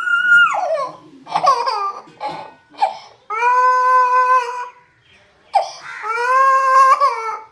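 African grey parrot vocalising: a string of short gliding calls, then two long, steady, held calls in the second half, each about a second and a half.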